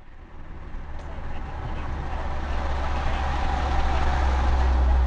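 Road and engine noise of a moving vehicle: a steady low rumble with broad road hiss that starts suddenly out of silence and grows louder over the first few seconds.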